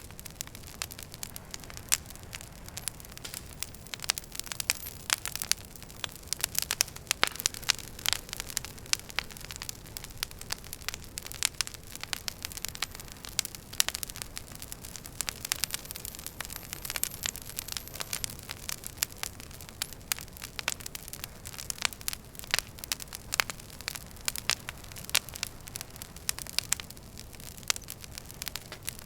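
Wood fire burning in a fireplace, crackling with frequent irregular sharp pops over a low, steady rush of flame.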